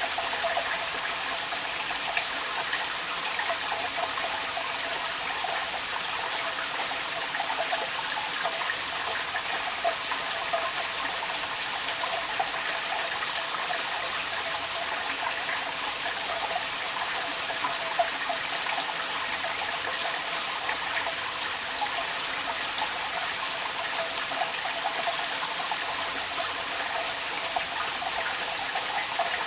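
Rain with water running and splashing out of a downpipe: a steady rushing of water with many small patters of drops.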